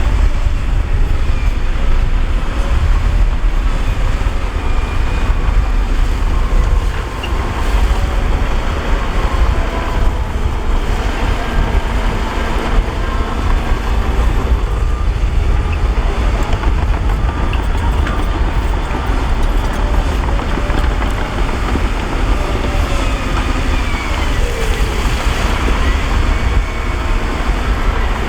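Heavy diesel earthmoving machinery running steadily, a deep low rumble with small shifts in engine pitch.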